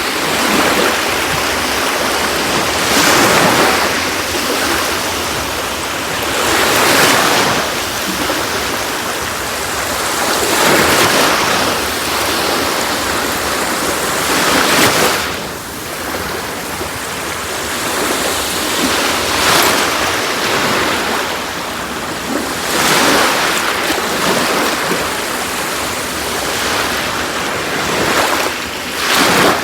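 Sea waves washing onto a beach, a continuous surf wash with a wave surging in about every four seconds.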